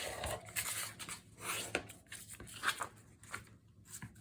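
Dyed paper sheets being handled and folded: quiet rustling with several short rubbing strokes as the folds are creased with a bone folder.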